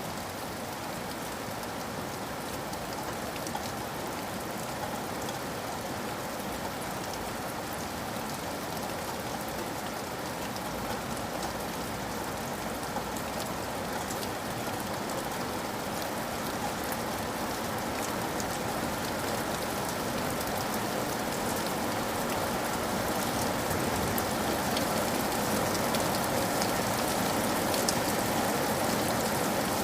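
Steady rain falling on a surface, a dense hiss of many drops with fine individual ticks, growing slowly louder.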